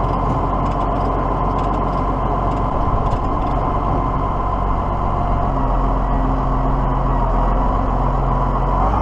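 Tractor engine running steadily under way, with a steady whine over the engine note.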